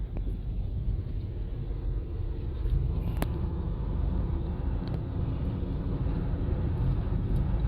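Steady low rumble of a car driving, with a single sharp click about three seconds in.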